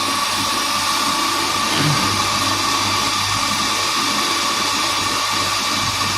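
Commercial coffee grinder motor running steadily with a high whine, grinding a dose of espresso beans.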